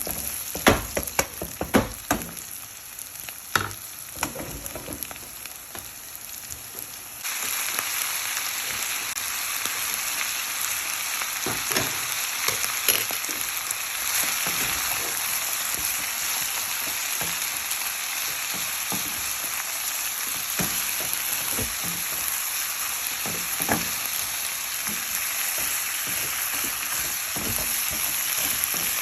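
Chicken frying in hot oil in a pan, a steady sizzle with the clack and scrape of a spoon stirring it. About seven seconds in, the sizzle suddenly gets louder and stays so.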